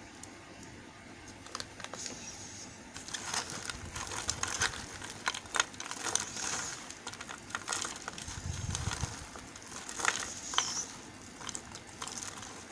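Crisp, irregular clicks, scrapes and crackles from bars of soap being handled and worked, sparse at first and busier after a few seconds, with a brief low rumble about two-thirds of the way through.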